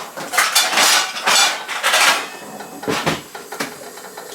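Kitchen cookware and utensils clattering and scraping for about two seconds, then a dull knock about three seconds in and a few lighter clicks.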